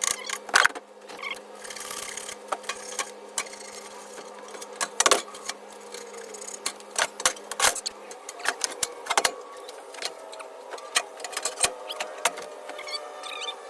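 Irregular clicks, knocks and rattles of hand tools and metal parts being handled during air-conditioner repair work, over a low steady hum that stops about eight seconds in.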